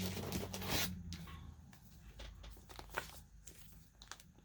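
Paper rustling and crinkling as sheets and envelopes are handled, loudest in the first second, then softer scattered handling noises with a sharper tick about three seconds in.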